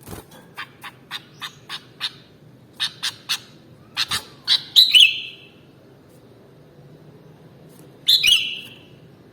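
Sooty-headed bulbul calling: a quick run of short, sharp chips, then louder phrases with a falling whistled note about five seconds in and again just after eight seconds.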